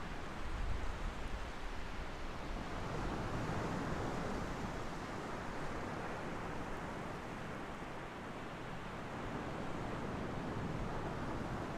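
Ocean surf washing onto a shore in a continuous rush, swelling a little about three to five seconds in and again near the end.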